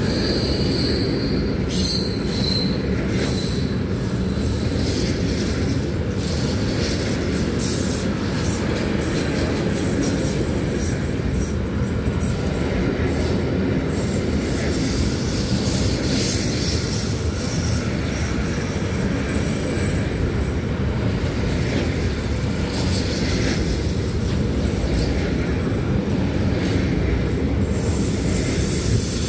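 Train rolling through a station, a steady heavy rumble of wheels on the rails, with a brief high wheel squeal in the first couple of seconds.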